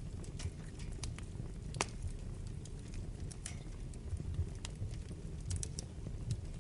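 Wood fire burning in a fireplace: irregular sharp crackles and pops over a low steady rumble, with one louder pop about two seconds in and a quick run of snaps near the end.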